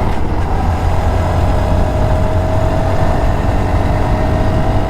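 Small motorcycle's engine running on the move, its note slowly climbing as it gently speeds up, over a heavy low rumble.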